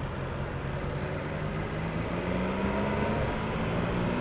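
BMW S1000R's inline-four engine running on the stock exhaust under way, its pitch rising smoothly about halfway through as it accelerates, then holding.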